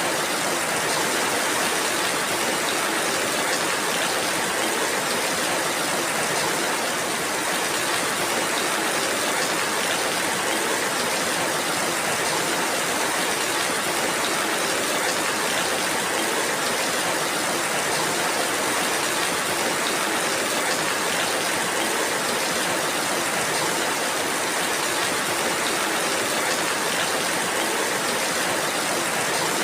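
Steady rainfall, an even, unbroken hiss with no separate drops or other events standing out.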